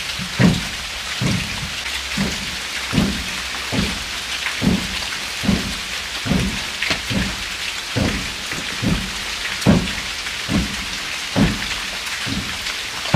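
Rain falling steadily with a hiss, with low thuds repeating a little more than once a second.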